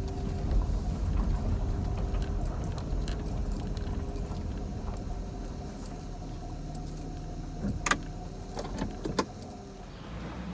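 Car driving, heard from inside the cabin: a steady low road rumble with a faint steady whine, and two sharp clicks near the end.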